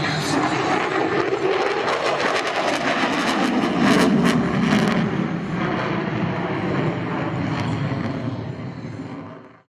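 F-35 Lightning II jet engine, loud and steady, with a crackle about four seconds in; it fades near the end and then cuts off.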